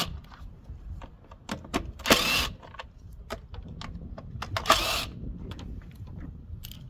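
Metal tool clicks and short bursts of a 5/16 socket tool backing out the bolts on a push mower's starter blower housing: two louder bursts, about two seconds in and near five seconds in, with light clicks between.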